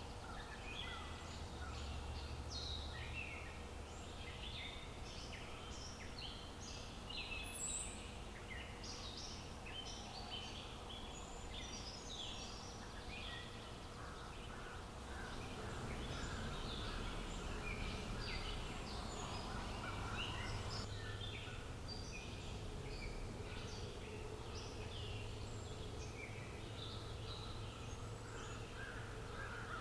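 Outdoor birdsong ambience: many small birds chirping and singing in quick, overlapping calls over a steady background hiss with a faint low rumble.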